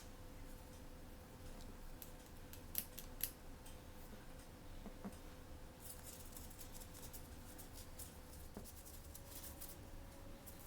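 Scissors cutting open a blind-bag package: two sharp snips about three seconds in, then a longer stretch of fine crackling clicks from the packaging being cut and handled.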